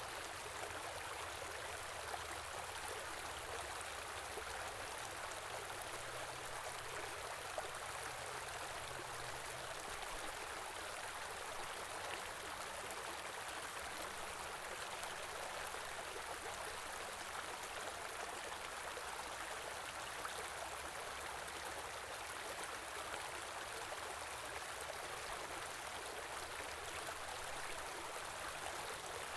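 A shallow river or stream flowing and burbling steadily, a continuous rush of water.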